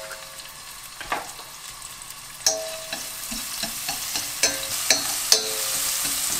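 Minced garlic sizzling in hot cooking oil in a frying pan, stirred with wooden chopsticks that tap against the pan about five times, each tap ringing briefly. The sizzle grows louder near the end.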